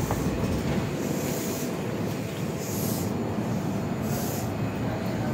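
Steady low rumble of electric commuter trains standing at a station platform, with short hisses about every second and a half.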